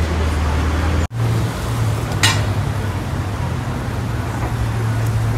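Porsche 911 GT3 RS's naturally aspirated flat-six engine running at low revs as the car creeps out of a parking spot, a steady low hum. The sound drops out for an instant about a second in, and there is one sharp click a little after two seconds.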